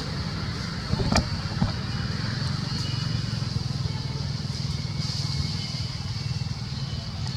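A motor vehicle's engine running steadily as a low rumble, with a couple of sharp knocks about a second in.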